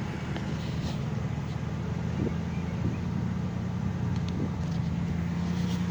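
1996 Ford Ranger's engine idling steadily through its stock exhaust, a quiet, even hum.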